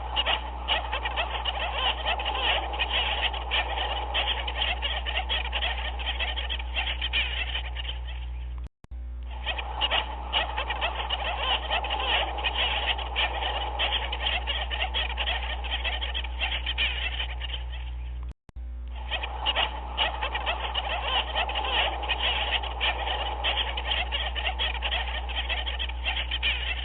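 A dense chorus of many animal calls chattering over one another, over a steady low hum. It drops out for an instant twice, about nine seconds in and again about eighteen seconds in, where a short recording loops.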